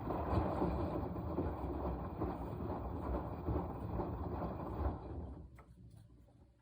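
Washing machine drum turning during the wash, clothes and water churning with a low rumble for about five seconds, then slowing to a stop near the end.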